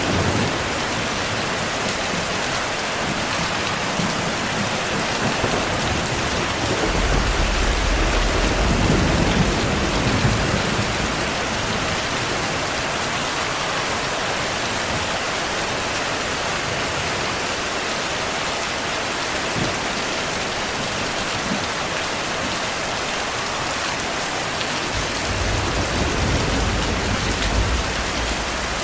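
Steady heavy rain with low, distant thunder rumbling twice: once about seven seconds in, and again near the end.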